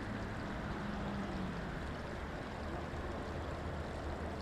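Steady rush of flowing river water, with a faint low hum underneath.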